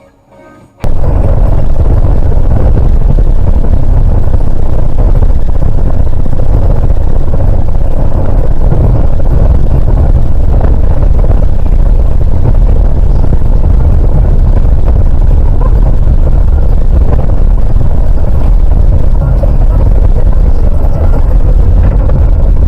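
Loud, distorted vehicle and road rumble, as picked up by a dashcam microphone, starting abruptly about a second in and running steadily.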